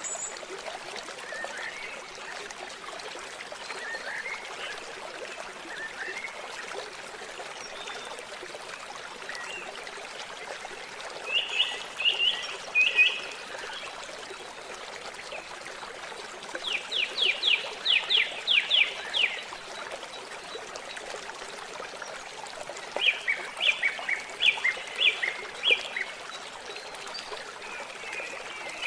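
Water trickling steadily, with a bird calling in three bursts of quick repeated high notes, the middle burst a fast run of about nine notes.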